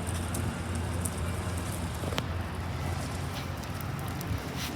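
Steady outdoor background noise: a low rumble under a crackling hiss, with a single sharp click about two seconds in.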